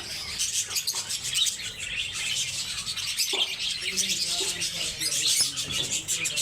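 Lovebirds chattering: a dense, continuous stream of rapid, high-pitched chirps from several birds at once.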